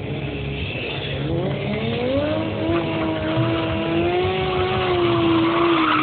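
Stunt motorcycle engine revving up over about two seconds and then held at high revs, its pitch wavering slightly.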